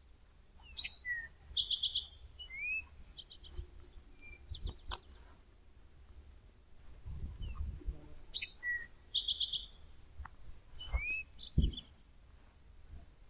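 A songbird singing the same short phrase twice, a few clear slurred whistles and fast runs of repeated high notes, once near the start and again in the second half. Dull low thumps and rustles sit underneath, the strongest shortly before the end.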